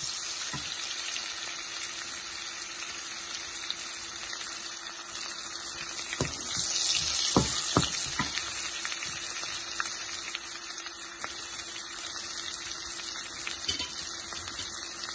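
Sliced onions and whole spices sizzling in hot ghee, stirred with a wooden spatula that knocks against the pan a few times, mostly in the middle and once near the end.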